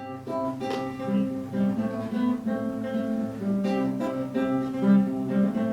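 Music on an acoustic guitar: a quick run of plucked notes that starts at the outset and keeps a steady pace.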